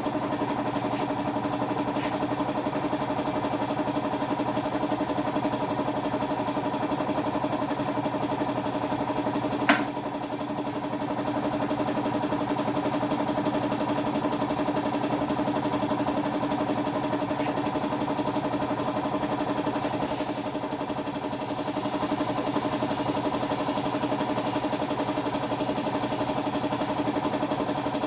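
A small motor running with a steady, unchanging hum. There is a single sharp click about ten seconds in.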